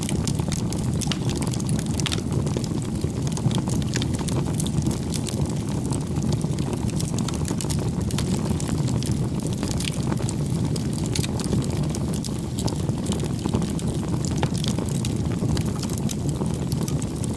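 Wood campfire crackling: a steady low rush of burning with frequent small sharp pops and snaps.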